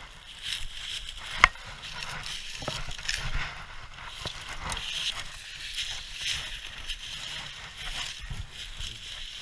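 Brush and dry twigs rustling and snapping underfoot in the undergrowth, in irregular crunches, with one sharp twig snap about a second and a half in.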